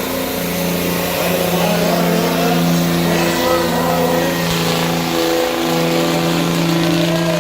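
Diesel pickup truck engine held at high revs under heavy load while pulling a weight-transfer sled, a steady engine note that dips briefly twice, about three and a half and five and a half seconds in.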